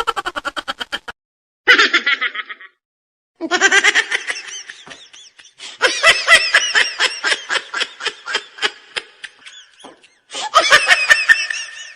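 Several separate laughter sound effects played one after another with short silent gaps: rapid, pulsing ha-ha-ha laughs, some high-pitched, the longest lasting about four seconds.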